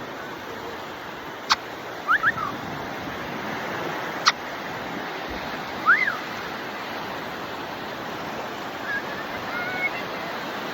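Steady wash of sea surf, with a few brief high chirps from an Amazon parrot and a couple of sharp clicks.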